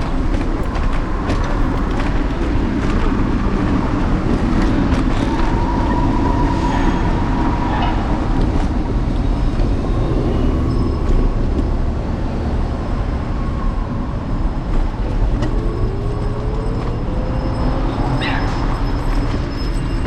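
Steady rumble and road noise of an electric scooter rolling over city pavement, heard through its handlebar-mounted camera, with street traffic around it. A few faint rising whines sound near the middle and later on.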